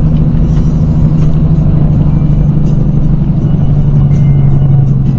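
Steady engine drone and road noise of a car being driven, as picked up by a dash cam.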